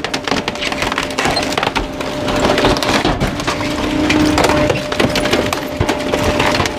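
Garbage truck packer blade crushing bulky waste: a continuous run of cracking, snapping and splintering as the load breaks apart, over a steady hum.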